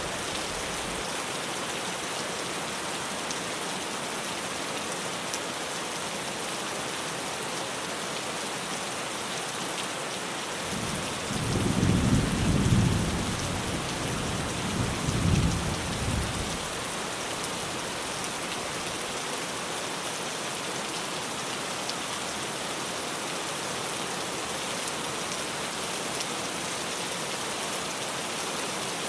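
Steady rain falling on a tin roof, with a low rumble of thunder that swells about eleven seconds in, peaks twice and dies away a few seconds later.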